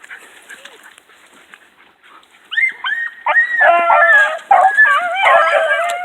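A pack of hunting hounds baying, several voices overlapping in rising and falling cries that break out suddenly about two and a half seconds in: the hounds opening up as they pick up the trail.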